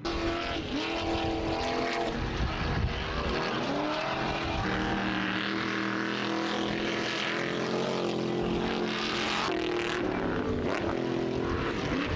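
Competition vehicle engines revving hard on a dirt course, their pitch repeatedly climbing and dropping with throttle, with more than one engine heard at once.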